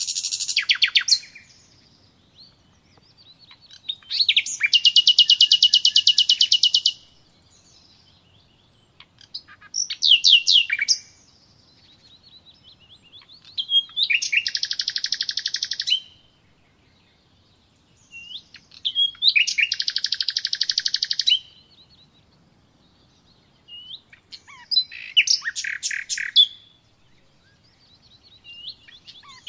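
A songbird singing high-pitched phrases of one to three seconds, several of them fast trills, repeated about every four to five seconds with short quiet pauses between.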